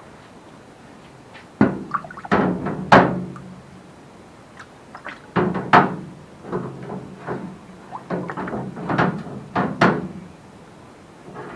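Engine pistons being set down into a metal parts-soaking tank of diesel: a run of clunks and knocks, then a longer second run about five seconds in.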